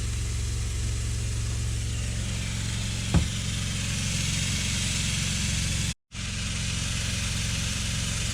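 Travel trailer's 12-volt fresh-water pump running steadily as it draws from the fresh tank, a low hum with water hissing out through the open line. A single knock comes about three seconds in, and the sound cuts out for a moment about six seconds in.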